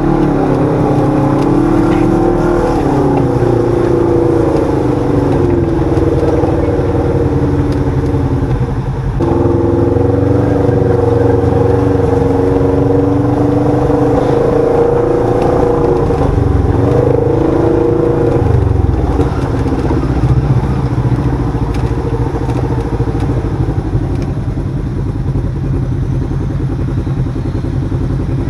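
Side-by-side UTV engine running under load on a trail ride, its pitch rising and falling with the throttle several times.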